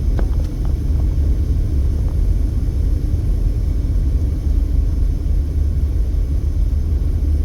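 Steady low rumble of a car being driven, heard from inside the cabin: road and engine noise, with a few faint clicks in the first second.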